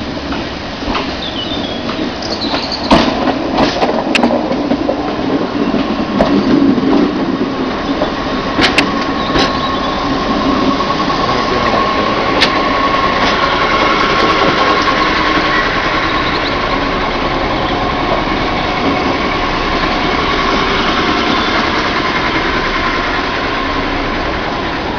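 London Underground A Stock train running into the platform and slowing, with sharp clicks and knocks from the wheels in the first half. A steady high hum sets in about a third of the way through and holds while the cars roll slowly past.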